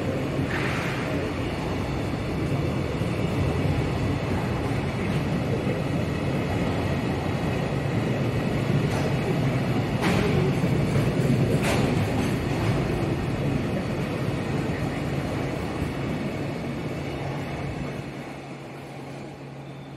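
Container freight train rolling past at close range: a steady rumble and clatter of wagon wheels on the rails, with two sharp knocks about halfway through. It fades near the end as the last wagon goes by.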